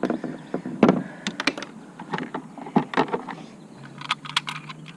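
Irregular knocks, clicks and rattles on a plastic fishing kayak as a large flathead catfish is handled aboard, with the loudest knock about a second in and a quick run of clicks near the end.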